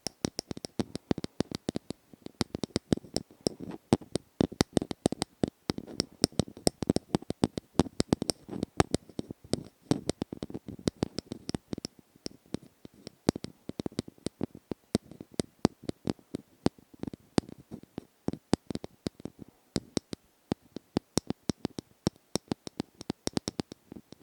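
Rapid, uneven tapping, several sharp taps a second, close up as in ASMR tapping.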